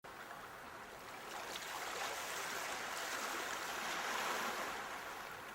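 Rushing water, a steady hiss that swells to a peak about four seconds in and then eases off.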